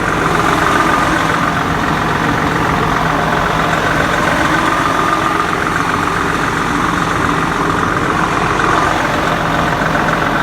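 Diesel engine of a Freightliner Century semi truck idling steadily.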